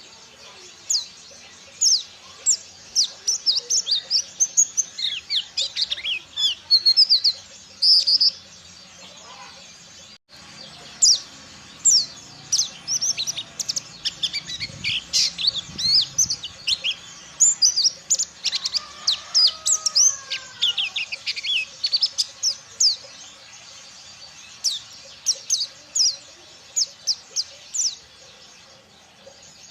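Pleci dakun Ciremai (white-eye) singing in wild 'ngalas' style: a rapid, busy run of high, thin chirps and quick down-sweeping notes. There is a brief dropout about ten seconds in.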